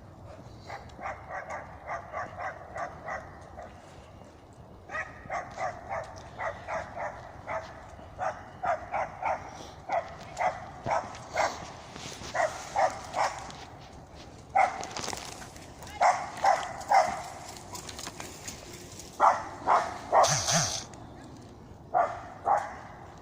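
A dog barking in rapid runs of short barks, about three a second, broken by brief pauses.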